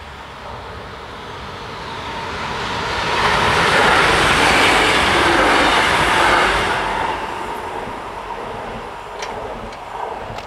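SJ X40 double-deck electric train passing over a level crossing: the rushing wheel and rail noise swells over about two seconds, stays loud for about four, then fades away. A few faint clicks come near the end.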